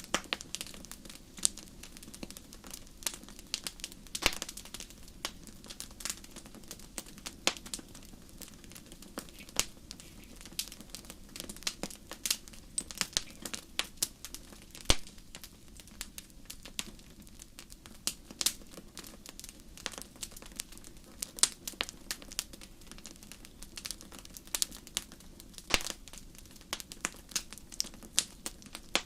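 Fire crackling: irregular sharp pops and snaps of varying loudness, several a second, over a soft, steady low rush.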